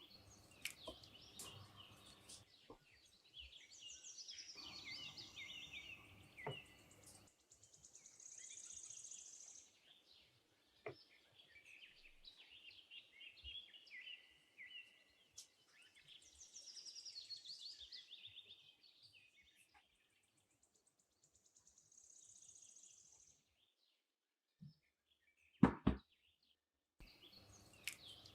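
Faint birdsong: series of short chirping notes repeated every few seconds. A few sharp knocks come through, the loudest at the very start and near the end.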